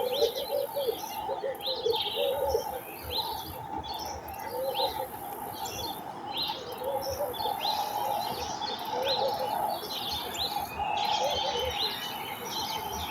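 Garden bird chorus: many short, high chirps and tweets from several birds overlapping, with a run of lower calls underneath.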